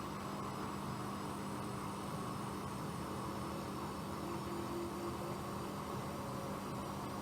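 Bosch Aquasensor WFP3231 washing machine running with a steady hum and hiss, with a faint higher tone coming in briefly just past the middle.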